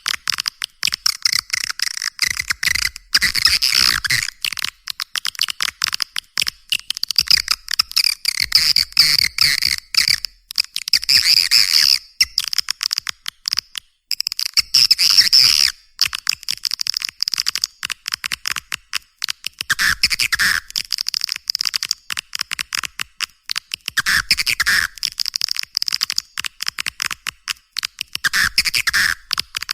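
Recorded swiftlet calling sound: a dense, rapid clicking twitter of swiftlets with a steady high-pitched chatter, in long phrases broken by a few short pauses. It is a lure call, played to attract swiftlets to a nesting house.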